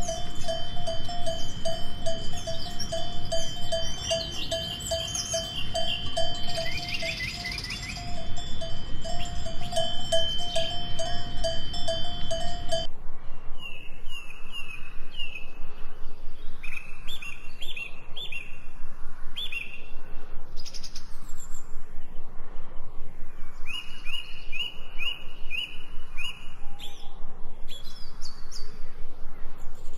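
Birds chirping and singing over a bell-like tone ringing about twice a second. About thirteen seconds in, the tone stops and a different stretch of birdsong follows, with runs of short, repeated falling chirps.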